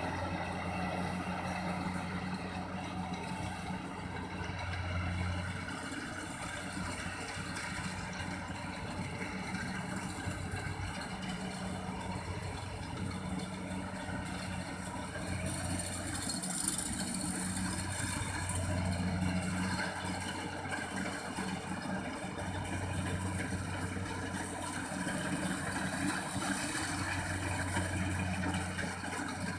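Kubota rice combine harvester's diesel engine running steadily, its low hum swelling and fading every few seconds.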